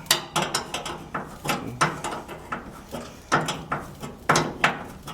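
Irregular clinks and knocks of hand tools and metal parts being handled, about a dozen sharp clicks.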